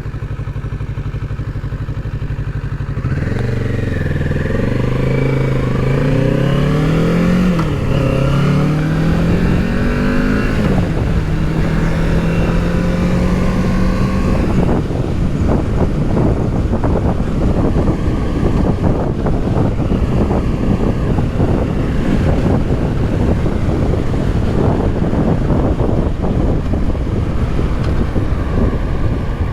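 Kawasaki Z650's parallel-twin engine running: it holds a steady note for about three seconds, then pulls away with the pitch rising and dropping back at each of several gear shifts. After about eleven seconds it settles to a steady cruise, and from about fifteen seconds in rushing wind noise on the helmet microphone covers the engine.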